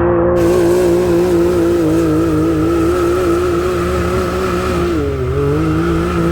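Side-by-side UTV engine running at steady high revs under load on a climb. Its pitch sags briefly about five seconds in and then picks back up.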